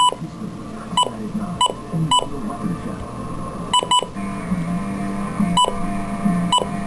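Short electronic alert beeps sounding at irregular intervals, roughly every half second to a second and a half, over soft background music.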